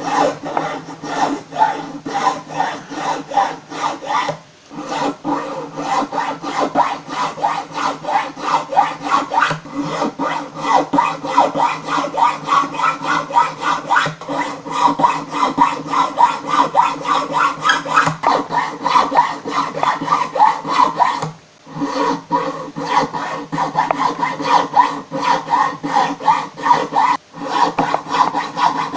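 Triangular file rubbed back and forth across the fret slots of a wooden guitar fretboard in quick rasping strokes, cutting a shallow groove at the top of each slot to guide the frets in. The strokes stop briefly three times, as the file moves between slots.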